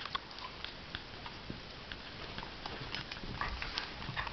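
Two dogs play-wrestling: scattered light clicks and scuffling from paws and mouths, busier after about three seconds.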